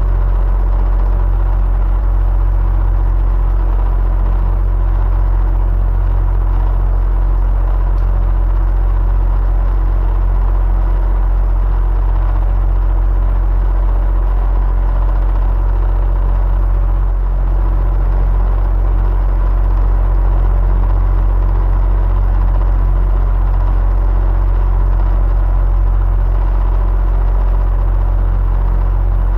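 Electric fan running steadily: a constant low hum and airy whoosh with a faint steady whine, unchanging throughout.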